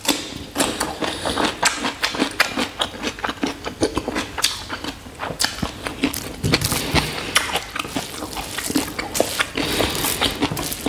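Eating sounds: a person chewing a mouthful of pork and rice, a dense run of short wet clicks and crackles, with fingers squishing through curry-soaked rice.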